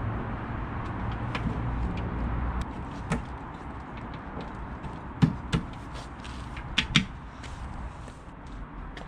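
Sharp metallic clunks and clicks as the metal side panel of a Vespa P200E scooter is fitted and latched back on: one knock, then two quick pairs of knocks. A low steady rumble underlies the first couple of seconds.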